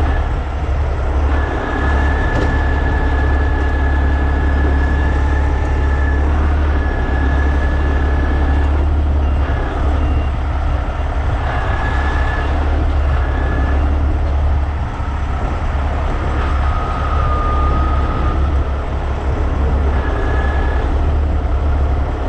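Heavy rotator tow truck's diesel engine running steadily with a low rumble, while the boom is worked to lift the burned semi; a thin high whine comes and goes several times over it.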